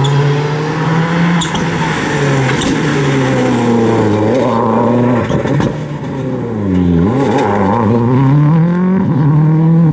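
Rally car engine running hard at high revs. Its pitch dips around the middle, then climbs again toward the end as it accelerates.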